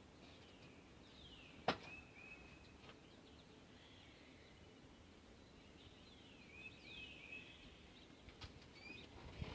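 Faint birds chirping: short downward-sliding calls that end in brief steady notes, in two clusters, one early and one about two-thirds of the way through. A single sharp click about 1.7 seconds in is the loudest sound.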